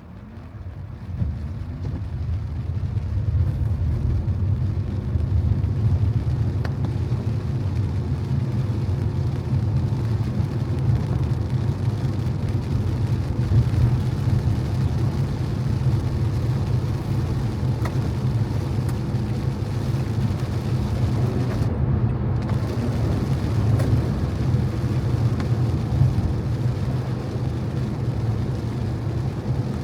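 A car being driven on a wet road: a steady low engine and road rumble with tyre hiss. The sound builds over the first few seconds as the car picks up speed, then holds steady.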